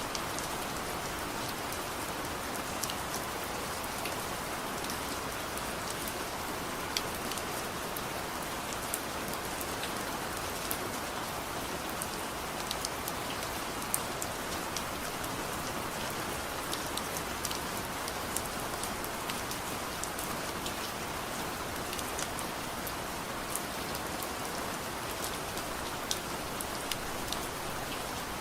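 Steady soft rain falling, with scattered sharp clicks and pops throughout.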